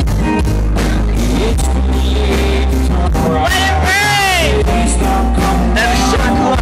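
Live country-rock band playing at full volume, with a steady drumbeat, bass and guitars. A lead melody line bends up and down about four seconds in.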